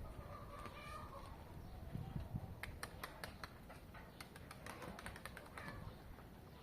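Faint bird sounds: a quick, irregular run of short high chirps starting about two and a half seconds in.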